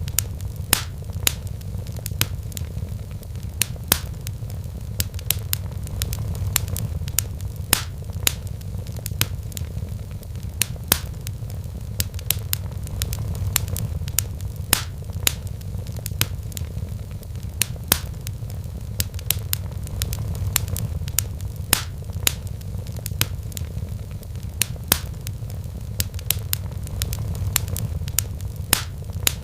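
Wood fire crackling in a fireplace: many sharp, irregular snaps and pops over a steady low rumble.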